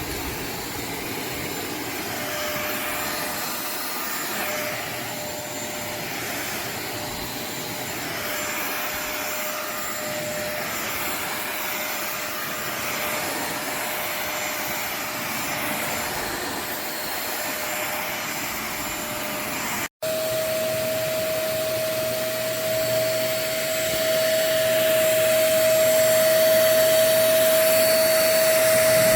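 Tineco Pure ONE S15 cordless stick vacuum running, a rush of air with a steady whine. After a momentary break about two-thirds of the way in, it comes back louder with a stronger, slightly higher whine, and it grows louder again a few seconds later.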